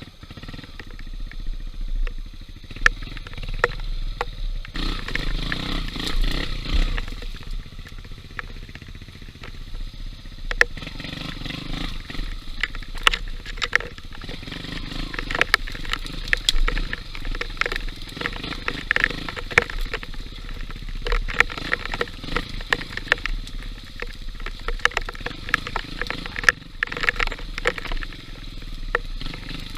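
Small trail motorcycle engine running over rough ground, swelling and dipping with the throttle, with many sharp knocks and rattles throughout.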